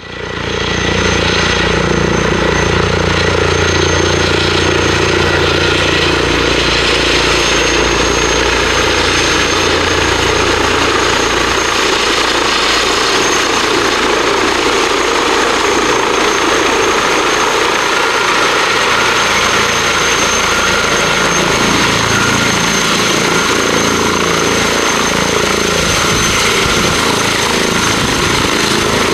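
Airbus H160B helicopter running, its twin turboshaft engines giving a steady high turbine whine over the rush of the five-bladed main rotor. A low rotor throb is strongest for the first ten seconds or so, then weakens.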